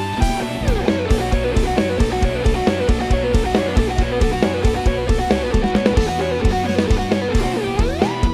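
Live band playing an instrumental passage: a fast lead guitar line in repeating descending runs over drum kit and bass. Near the end the lead note bends down and back up.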